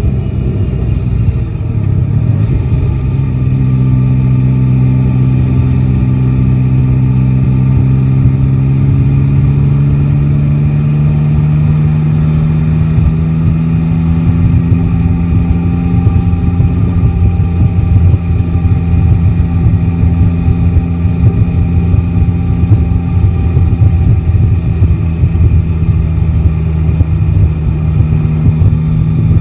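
Yamaha Tracer 9 GT's three-cylinder engine running while riding, its pitch climbing slowly through the first half as the bike gathers speed, then holding steady and rising again near the end, over dense road and wind noise.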